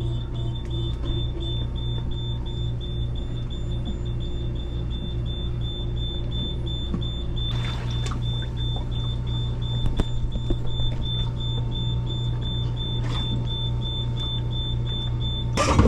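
A steady low machinery hum with a thin, high, evenly pulsing beep-like tone over it.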